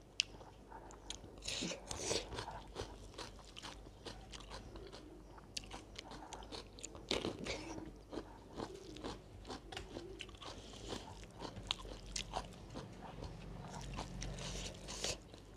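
A person chewing and crunching a mouthful of food, with many small, irregular mouth clicks.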